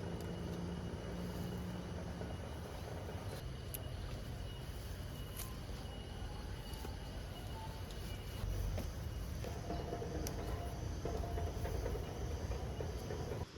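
Tropical forest ambience: insects droning with a steady high tone over an even hiss, with scattered light clicks and knocks.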